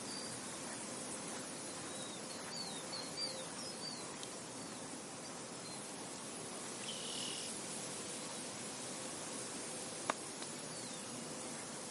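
Steady wind across an open field, with a run of short, high chirping calls a few seconds in, another call a few seconds later, and a single sharp click near the end.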